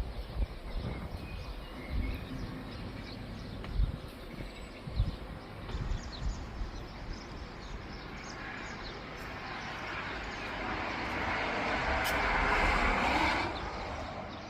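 Outdoor ambience with low thumps of wind on the microphone. A broad rushing noise builds over several seconds and drops off sharply near the end.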